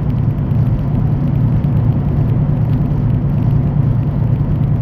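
Semi-truck under way on the road: a steady, even low drone of engine and road noise.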